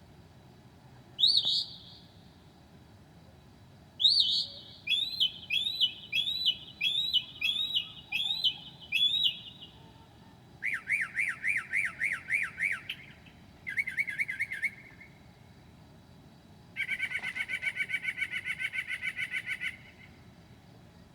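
Northern mockingbird singing at night: a string of different phrases, each made of one note repeated quickly several times. There is a single note about a second in, then a run of about nine rising-and-falling whistles, then two shorter fast trills. Near the end comes a rapid rattling phrase that the uploader took for a possible imitation of a laughing hyena.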